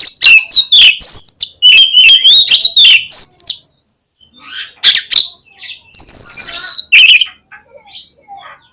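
Oriental magpie-robin singing loudly: a rapid run of varied whistled and chattering notes for about three and a half seconds, a short pause, then a few sharp notes and a long held whistle that falls slightly in pitch.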